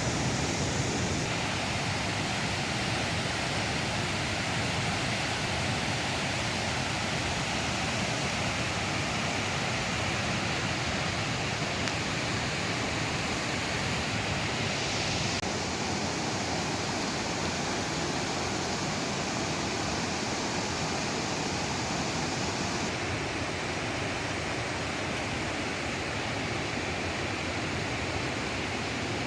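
Waterfall on the Snake River rushing steadily, a continuous noise of falling water with small shifts in tone partway through.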